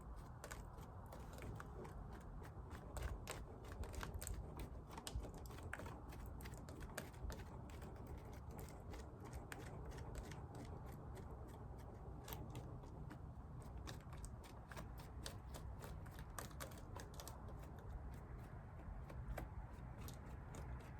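Bees being brushed off a beehive frame from a dead-out colony: a dense run of light, irregular ticks and clicks as brush and bees scrape and drop off the comb, over a low steady rumble.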